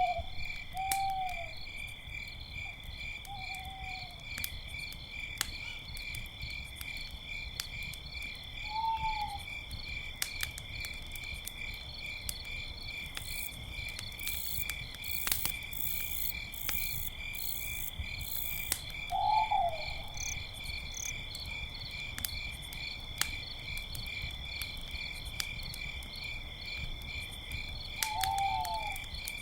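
Crickets chirping steadily in a fast, even pulsing trill, with an owl hooting in short calls several times and a campfire crackling with scattered pops.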